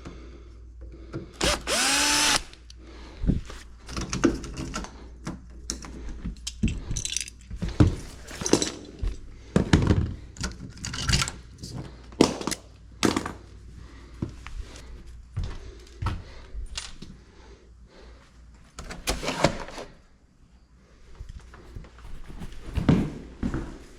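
A power drill spins up briefly, its whine rising and then holding, about two seconds in, followed by a long string of irregular knocks and clunks.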